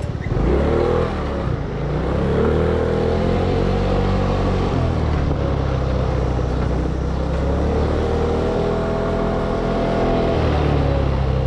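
A vehicle engine accelerating and easing off twice: its pitch climbs and holds, drops about five seconds in, climbs again about eight seconds in and falls near the end.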